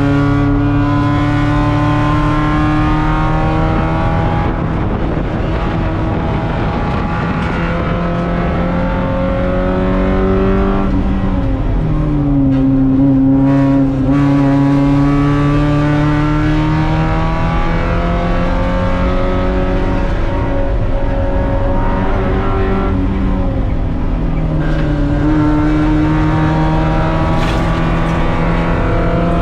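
Mazda Miata race car's four-cylinder engine heard from inside the cockpit under racing load, its pitch falling and rising as it brakes and accelerates through corners. A sudden short drop in pitch and level comes about halfway through.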